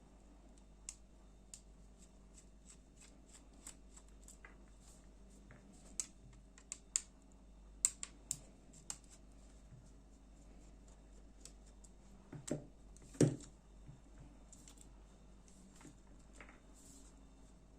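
Small clicks and taps of a folding knife's parts and a small screwdriver being handled while the knife is taken apart. They come irregularly, with a louder knock about thirteen seconds in.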